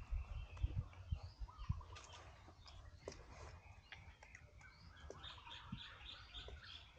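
Birds chirping and twittering, with a quick run of repeated notes in the second half, over a low rumble that fades after the first two seconds.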